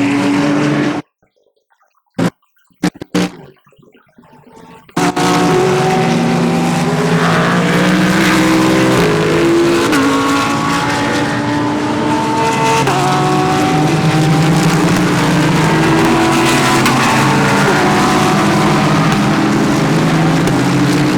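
Several GT3 race cars running through a corner, many engine notes overlapping and sliding up and down in pitch. The sound drops out for about four seconds near the start, broken only by short snatches, before the engines come in loudly and steadily.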